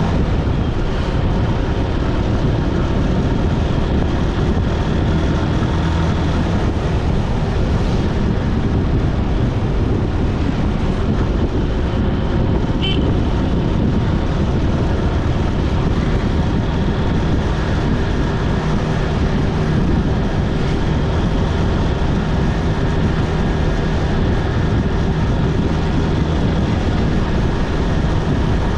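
Steady road noise on the move: a vehicle engine's even low hum under a dense rush of wind and tyre noise, with a brief high chirp about thirteen seconds in.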